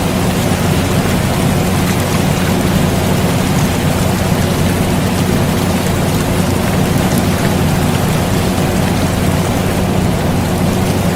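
Steady rain falling, mixed with the constant low hum of an air conditioner running. Neither changes over the whole stretch.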